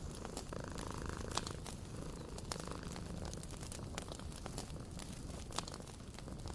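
Wood fire crackling with frequent sharp pops, over the steady low rumble of a cat purring.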